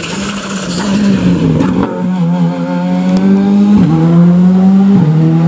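Rally car engine at high revs, getting louder as the car approaches. Its pitch steps abruptly twice, about four and five seconds in.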